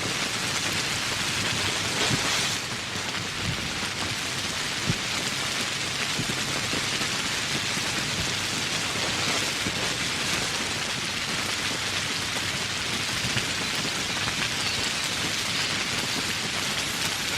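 Steady rain falling, with a brief louder surge about two seconds in and a few sharp, close drop ticks.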